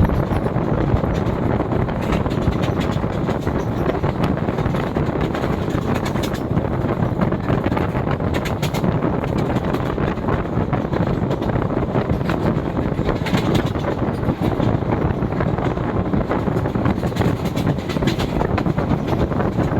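Express passenger train running through a station at speed without stopping: a steady loud rumble and rush of wheels on rail, with occasional sharper clacks.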